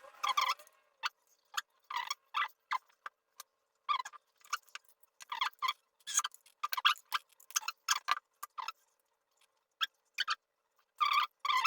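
Irregular short clicks and squeaks of hand work on an RC monster truck's plastic gearbox and screws as the gearbox is taken out.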